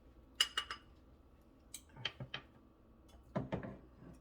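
Kitchenware handled at the stove: light clicks and knocks of utensils against a pan, in three short clusters.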